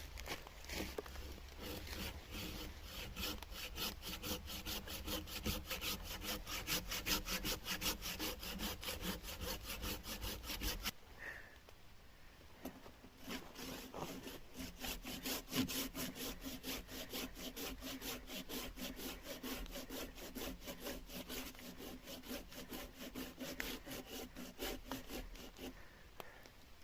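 A saw cutting into a wooden log with quick, even back-and-forth strokes, about four a second. The strokes go on through a change in the background about eleven seconds in.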